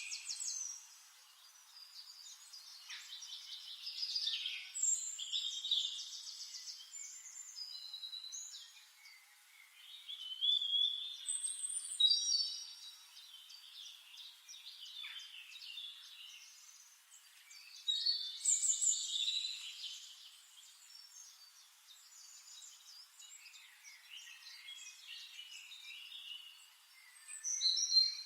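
Small songbirds singing: a mix of high chirps, whistled phrases and quick trills, with louder bursts of song every several seconds.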